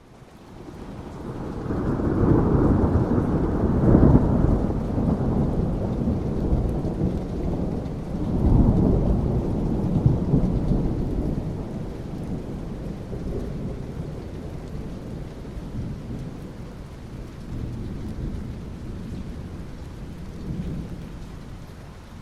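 Thunder rumbling low over steady rain. The rumble swells up in the first couple of seconds, peaks twice, then slowly dies away, leaving the rain.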